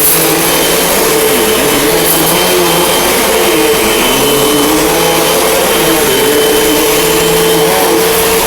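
Hoover Elite Rewind bagless upright vacuum cleaner (UH71012) running steadily while being pushed over carpet, with a constant motor whine.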